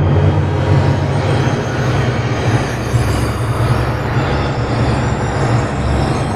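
Electronic ambient soundscape: a steady, dense low rumble under a noisy wash, with faint thin high tones above it.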